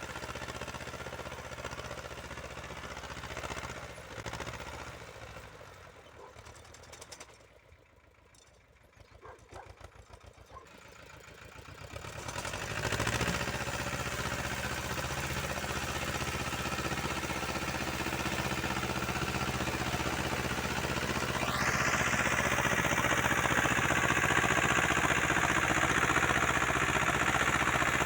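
Uralets walk-behind tractor's small petrol engine running; it drops to a slow, quiet idle for a few seconds, picks up again, and then runs louder and harder from about two-thirds of the way through.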